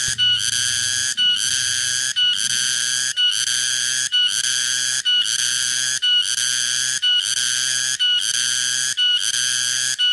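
Tonggeret (cicada) calling: a shrill, buzzing song in short calls of just under a second each, repeated about once a second with brief gaps between them.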